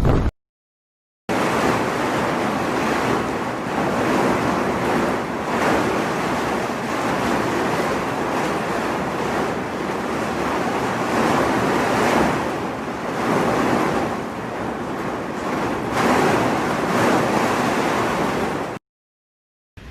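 Typhoon storm noise: a steady rush of heavy surf and wind, surging and easing every few seconds. Near the start and near the end it cuts to a second of silence.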